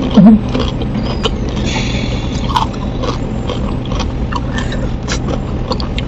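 Close-miked chewing of a mouthful of food, with small clicks and ticks spread through it and a metal spoon scraping and tapping a ceramic plate as more is scooped up. A brief low hum with a falling pitch comes right at the start and is the loudest moment.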